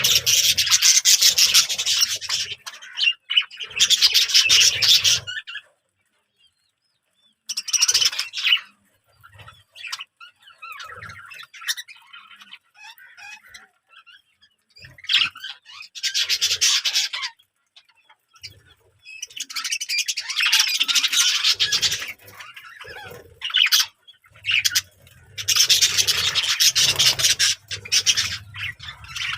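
Birds calling in harsh, scratchy bursts lasting a second or two to a few seconds, with short quiet gaps between them.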